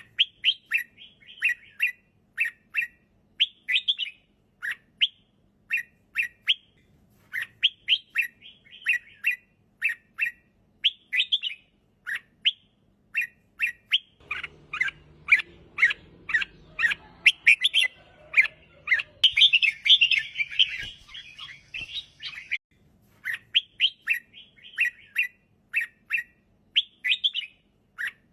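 Red-whiskered bulbul singing: quick, short chirping phrases repeated again and again. For several seconds past the middle a low rumble sits under the song, and a denser, higher chatter joins it before it drops back to the plain phrases.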